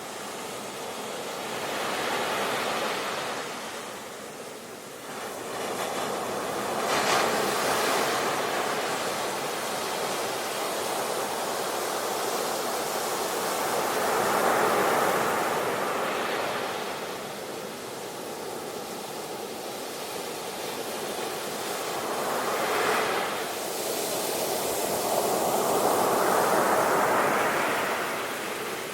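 Ocean waves breaking and washing on a shore, a steady rush of surf that swells and ebbs in several slow surges.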